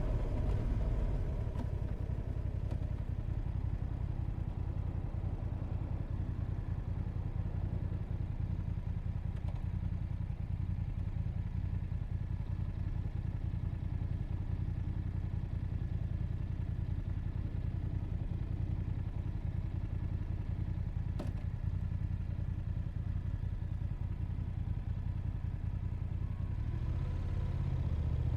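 Motorcycle engine idling steadily at a standstill, with the low engine note holding even. There is a single sharp click about twenty seconds in, and the engine note shifts slightly near the end.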